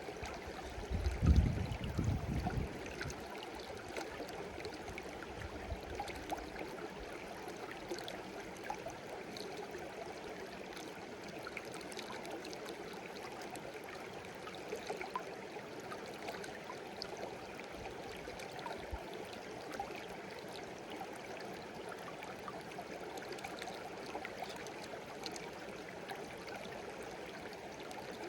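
Shallow stream babbling steadily, with a brief low rumble about a second in.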